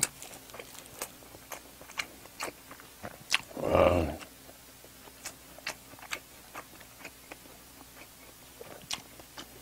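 A person chewing a mouthful of food, with wet smacking and crunching clicks a few times a second. About four seconds in comes a short hummed vocal sound.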